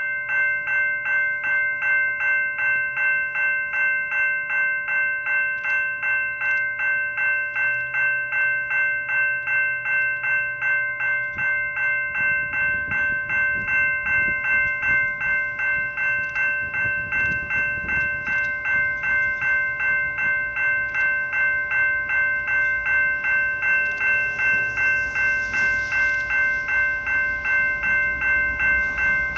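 Railway level-crossing bell ringing steadily and rapidly, about three strokes a second, each stroke ringing on at the same few pitches. A low rumble builds underneath from about twelve seconds in.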